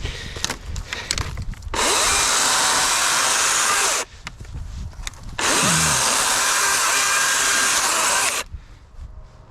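DeWalt 60-volt brushless battery chainsaw running in two bursts, one of about two seconds and one of about three, separated by a short pause.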